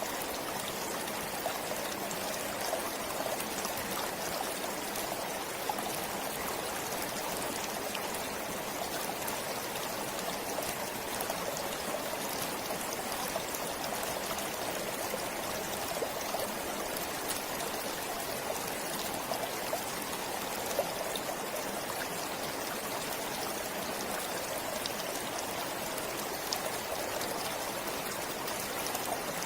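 Forest stream flowing steadily, a continuous rushing of water with small splashes and trickles through it.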